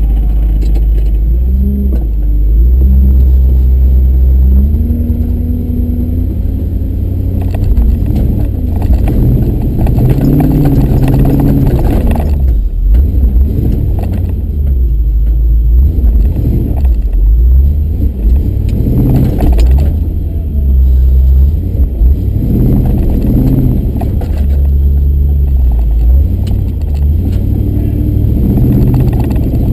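Truck engine running at low speed while maneuvering, its revs rising and falling, with heavy low rumble.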